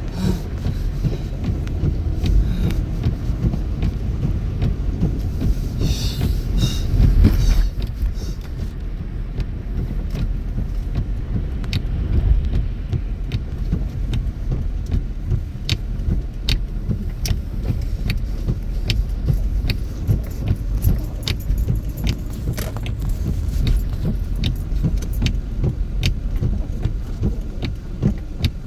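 Car driving, heard from inside the cabin: a steady low rumble of road and engine noise. A brief metallic jingle comes about six seconds in, and light, irregular clicks and rattles are scattered through the second half.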